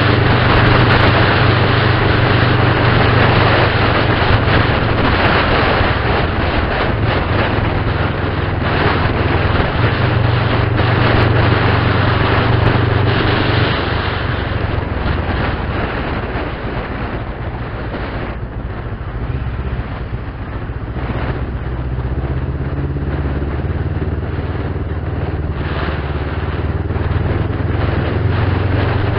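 A motor running steadily under a loud, even hiss, easing off somewhat in the middle and picking up again near the end.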